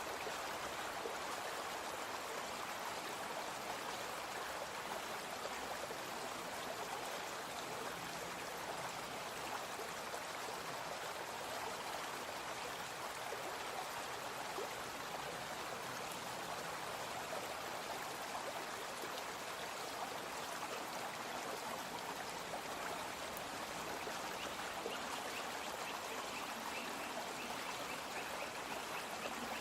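Brook water flowing steadily: an even rushing babble of a small stream.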